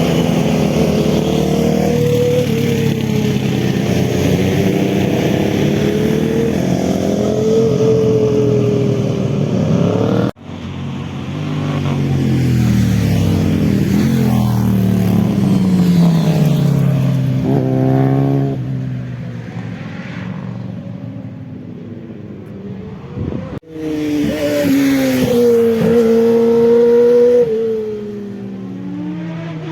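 Motorcycle engines revving hard and accelerating, their pitch climbing and dropping through the gears, with one falling away as it passes. The sound cuts abruptly twice, about ten seconds in and again near twenty-four seconds, as separate clips follow one another.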